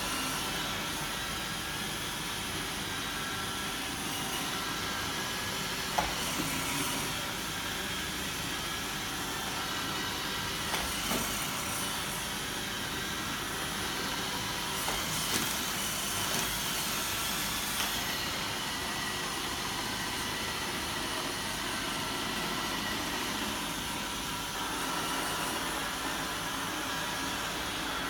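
iRobot Roomba 770 robot vacuum running, a steady whirring hum from its motor and brushes, with a few short knocks along the way.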